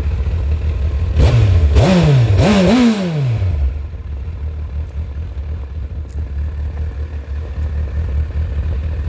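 Honda CBF1000's inline-four engine idling through its stock exhaust, revved three times in quick succession about a second in, then dropping back to a steady idle. The stock exhaust keeps it subdued.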